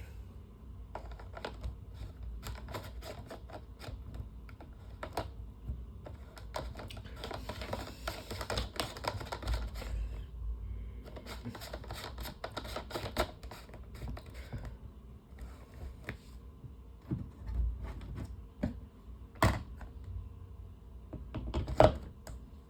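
Irregular clicking and rattling of plastic fan parts being handled and fitted, in uneven clusters, with a few sharper, louder clicks near the end.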